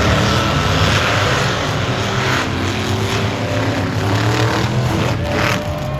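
A monster truck's big engine running loud and steady, its pitch shifting a little.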